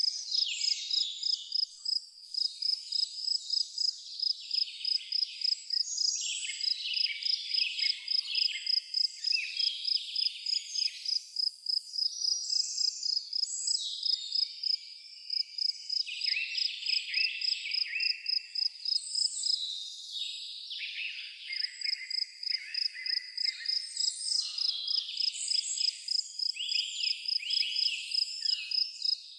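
A cricket chirping in an even, steady rhythm of about two to three high chirps a second, pausing twice briefly, while several songbirds sing overlapping, varied phrases.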